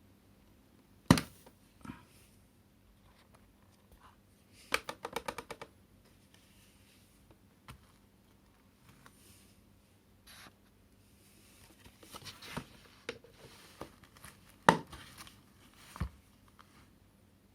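Plastic parts of a cordless cyclone vacuum being handled: sharp clicks and knocks, a quick run of about eight clicks around five seconds in, and light scraping and rustling between them.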